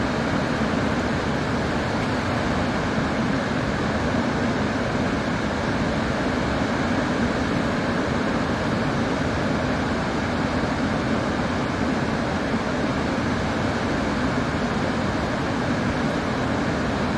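Iguazu Falls' water pouring down in a steady, unbroken rush, loud and even throughout.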